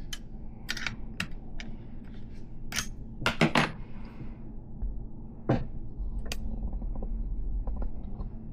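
Scattered light metallic clicks and clinks of a BMX hub's solid axle, nuts and spacers being handled against the fork dropouts. There are a couple of louder clicks about three and a half seconds in, and a low handling rumble in the second half.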